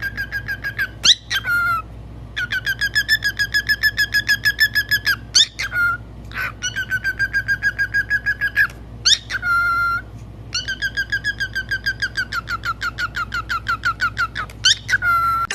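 Pet parrot trilling in long runs of quick, evenly repeated whistled notes, about nine a second. Each run is broken off by a short rising whistle.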